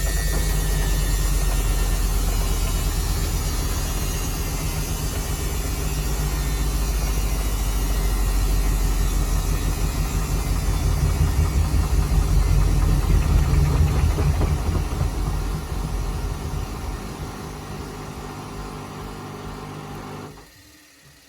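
Samsung washing machine on its spin cycle, the drum spinning with a low rumble and rattling from an unbalanced load. It is loudest about halfway through, then the spin winds down and dies away near the end.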